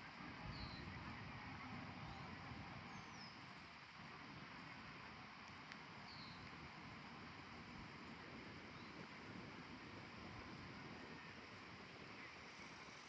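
Quiet outdoor ambience: a faint, even background hiss with a steady high-pitched pulsing insect drone and a few short, faint chirps.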